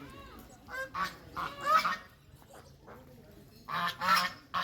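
Geese honking: several loud, short calls in two bunches, one about a second in and another near the end.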